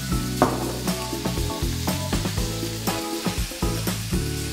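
Vegetables and paneer frying in ghee in a saucepan, with a steady sizzle, under background music of held melodic notes.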